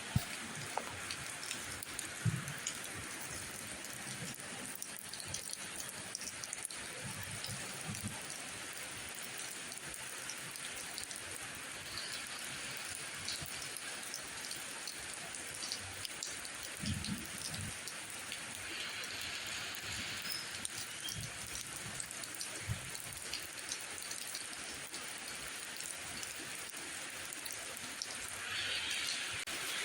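Steady rainfall: an even hiss of rain on surfaces with scattered drop ticks and a few soft, low thuds from heavier drops. The hiss grows a little louder near the end.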